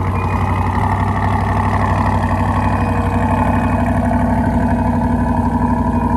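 2021 Chevrolet Corvette Stingray Z51's 6.2-litre LT2 V8 idling steadily and loud, seconds after a cold start.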